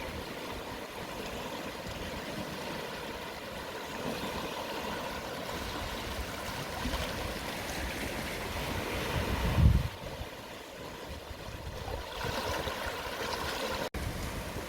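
Small, gentle sea waves washing in over the shore at low tide: a steady wash of surf. About two-thirds of the way through, a brief gust of wind thumps on the microphone.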